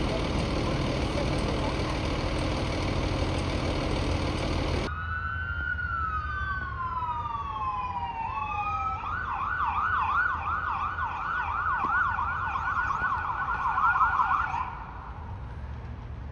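A loud, steady rumbling noise that cuts off abruptly, then an emergency vehicle siren: a wail falling in pitch that switches to a fast, rapidly repeating yelp before cutting off.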